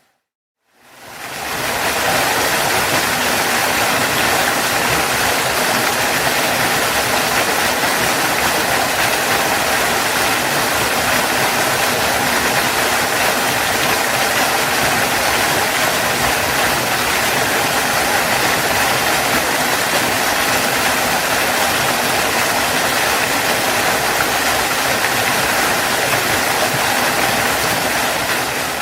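Waterfall rushing steadily, a dense even roar of falling water; it fades in from a brief silence in the first couple of seconds and fades out near the end.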